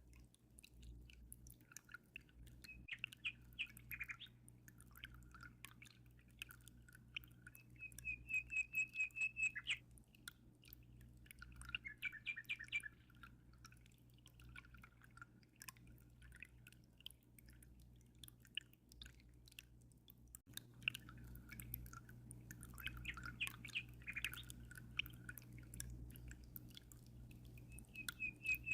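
Small songbirds chirping in short groups, with a fast trill of rapidly repeated high notes about eight seconds in and again near the end, over a steady low hum and faint dripping water.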